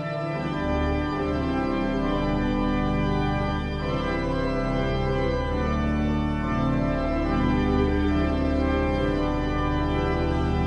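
Church organ playing slow, sustained chords over a steady low pedal bass.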